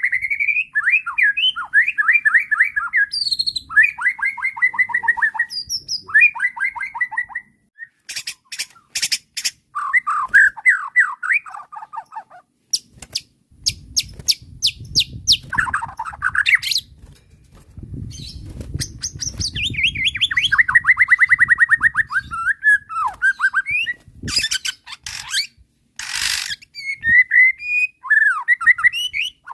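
White-rumped shama (murai batu) singing in an agitated, excited state: varied phrases of fast repeated notes and trills, broken by harsh, rasping rattles. A low rumble sits under the song for several seconds midway.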